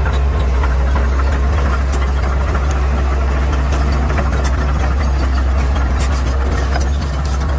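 Caterpillar D6R XL bulldozer's diesel engine running steadily with a deep, even drone, with scattered light clicks over it.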